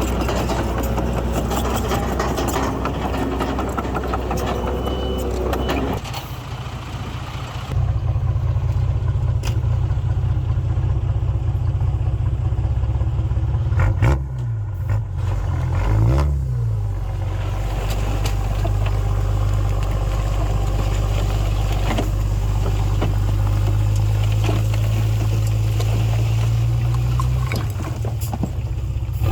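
Bulldozer's diesel engine running steadily. It drops back briefly about six seconds in and then grows louder again, and its revs dip and rise twice around halfway through.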